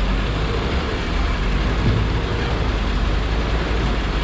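Busy street traffic: a steady din of vehicle engines and road noise with a low rumble.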